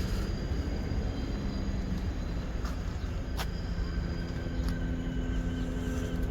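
Vehicle running with a steady low rumble and a faint hum, with a sharp click about three and a half seconds in.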